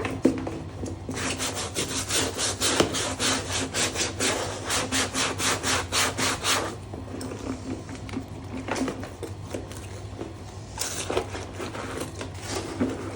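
Rapid back-and-forth rubbing strokes on a leather bag, about five a second for several seconds. The strokes slacken to softer, uneven rubbing, then pick up again briskly near the end.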